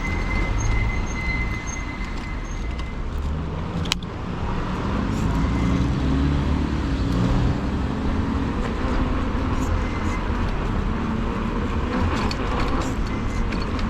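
Road traffic noise with a steady low rumble, heard while riding along a street, with a single sharp click about four seconds in.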